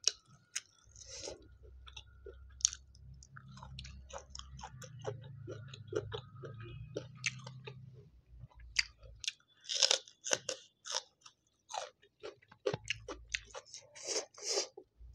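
Close-miked chewing of a mouthful of food, with many crisp crunches that come thickest in the second half.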